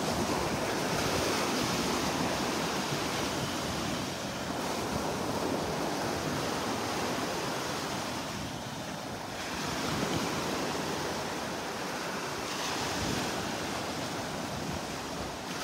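Gulf of Mexico surf washing onto the beach, a steady rush that swells and eases over several seconds, with wind blowing across the microphone.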